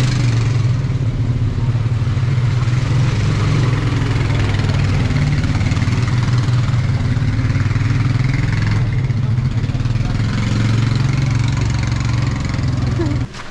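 Engine running steadily at an even, unchanging speed, loud and close. It cuts off abruptly just before the end.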